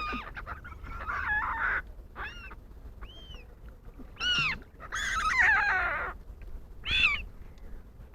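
Wild pond birds calling: a string of separate short arched calls, with two longer stretches where several calls overlap.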